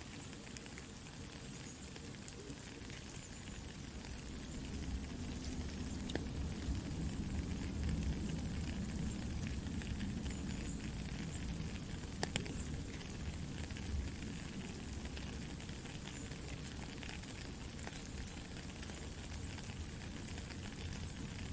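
Soft steady rain mixed with a crackling campfire, with occasional sharp pops from the burning wood.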